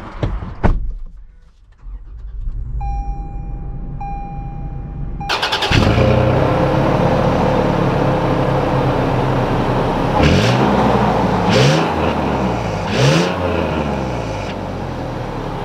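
Two electronic beeps, then about five seconds in the 2021 Toyota 4Runner's naturally aspirated 4.0-litre V6 cranks briefly and starts, settling into a steady idle. In the second half it is revved three times, each rev rising and falling back.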